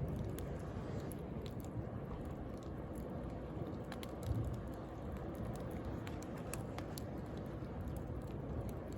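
Wood bonfire crackling, with irregular sharp pops and snaps, over the steady low rush of sea waves. A soft low thump comes a little over four seconds in.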